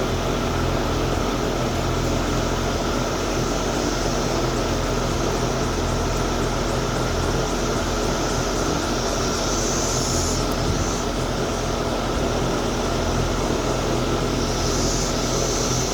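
Steady mechanical hum with a low drone under an even rushing noise, holding level throughout.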